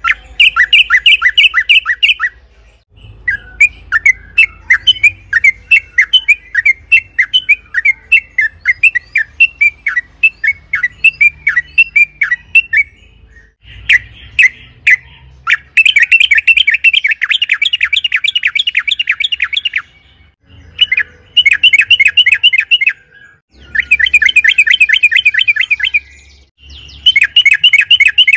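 Yellow-vented bulbul (trucukan) singing in loud bursts of rapid chattering notes. Some runs are dense and last about four seconds; others are slower strings of separate chirps.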